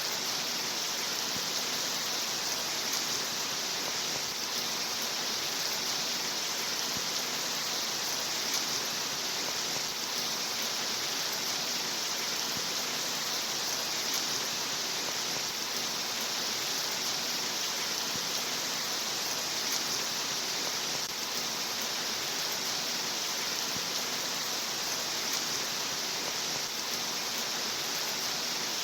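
Steady rain: an even, unbroken hiss of falling rain with no individual drops or other events standing out.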